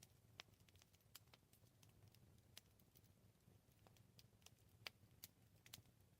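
Faint campfire crackling: scattered sharp pops and snaps from burning wood over a low, steady rumble, with a slightly louder pop about five seconds in.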